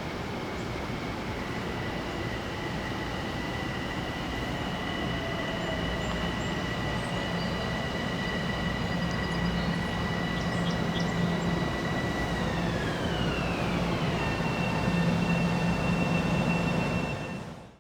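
Metro-North electric commuter train running past, a low rumble with a steady hum and a high whine that grows louder, the whine dropping smoothly in pitch about two-thirds of the way through.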